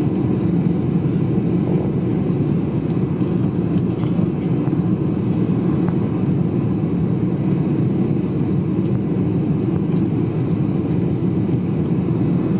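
Steady low rumble of a Boeing 747-400's engines and rushing air, heard inside the passenger cabin, holding an even level.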